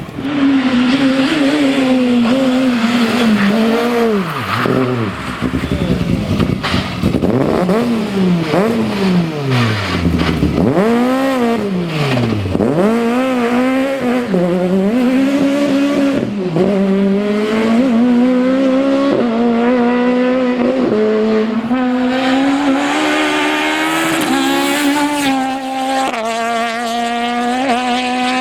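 Peugeot 206 Maxi rally car's high-revving four-cylinder engine at full throttle. In the first half the pitch swoops down and up sharply as the cars brake and accelerate past; later it climbs steadily through the gears, dropping at each upshift.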